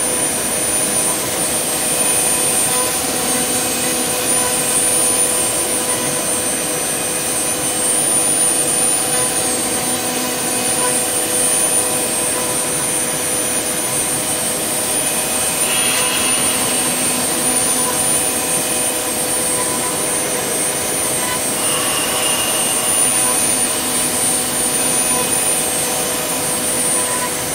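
CNC wood lathe on its finishing pass: the spindle motor runs with a steady high whine while a 6 mm ball-nose cutter machines the wood. The sound holds level without stopping.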